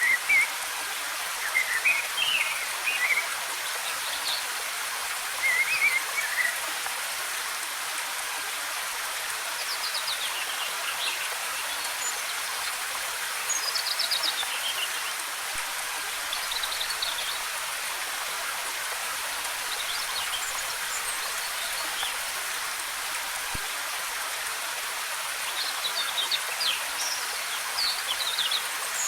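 Waterfall with a steady rush of cascading water and forest birds singing over it, short chirping phrases every few seconds. The birdsong is busiest near the start and again near the end.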